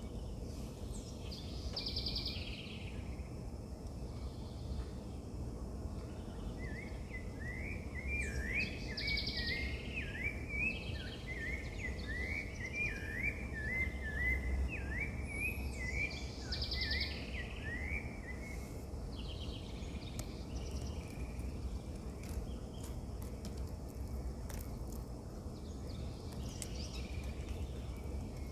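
Wild birds calling outdoors: one bird gives a fast series of short rising chirps for several seconds in the middle, while another repeats a brief buzzy call about three times. A steady low rumble of background noise runs underneath.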